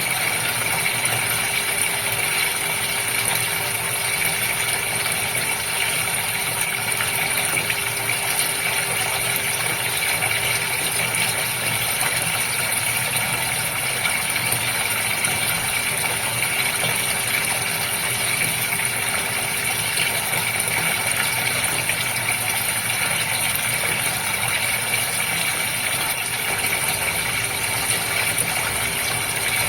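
Goldfish aquarium's water pump running, with moving water; a steady hum over an even hiss that does not change.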